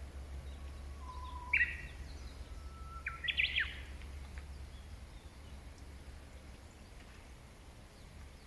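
A songbird singing two phrases: each a held, steady whistle followed by a short, quick flourish of higher notes, the second phrase longer. A steady low hum runs underneath.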